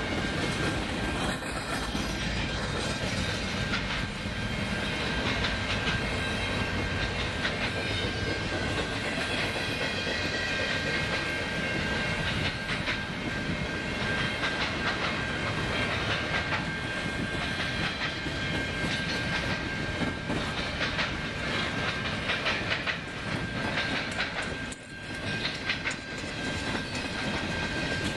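Freight train of double-stack intermodal well cars rolling past, its wheels clicking and rattling over the rails, with a steady high-pitched tone above the rumble.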